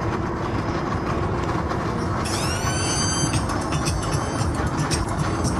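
Steady low rumble of running engines with a high-pitched squeal about two seconds in that bends down in pitch at its start and lasts about a second.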